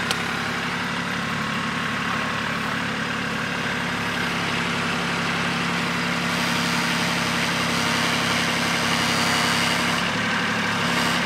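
Small Kubota tractor's engine running steadily at idle.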